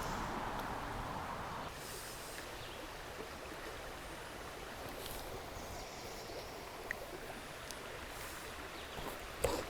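Shallow river water running steadily over low water, slightly louder for the first second or so. A few faint clicks and a short knock near the end.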